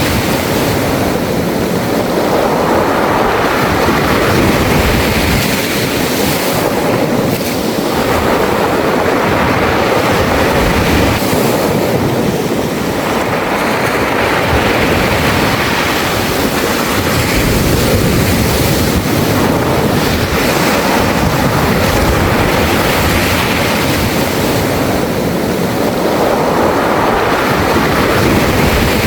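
Surf washing in and out over a beach of smooth round pebbles. Each wave surges up every few seconds, and the pebbles rattle as the water runs back.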